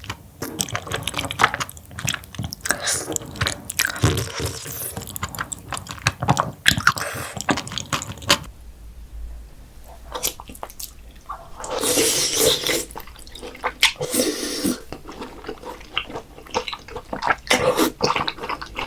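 Close-miked mukbang eating: wet chewing and biting of raw oysters, with crunching and dripping liquid sounds.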